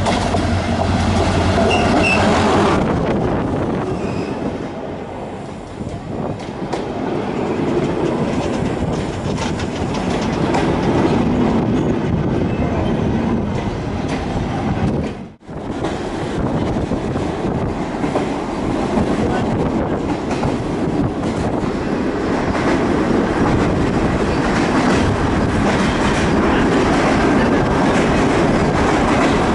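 GM GT22 diesel locomotive passing close with its engine humming, then its passenger coaches rolling by, wheels clattering on the rails. About halfway through the sound cuts off for an instant, and then comes the steady rolling and clatter of a passenger train heard from inside a coach.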